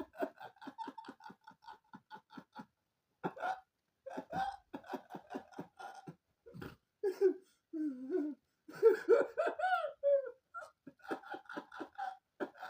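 A person laughing hard in long runs of rapid "ha" pulses, about six a second, with short pauses for breath and a few high, sliding squeals near the end.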